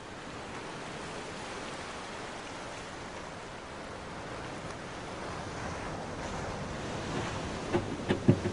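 A steady rushing noise that fades in at the start; plucked-string music begins near the end.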